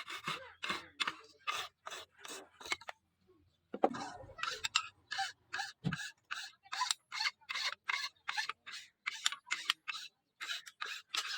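Hand-worked scraping strokes on a forged knife, about three a second, stopping briefly about three seconds in. A sharp knock comes as the strokes start again, with a duller thump about two seconds later.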